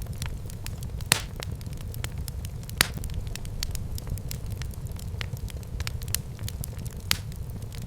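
Wood fire burning in a fireplace: a steady low rumble with frequent irregular crackles and a few louder pops about one, three and seven seconds in.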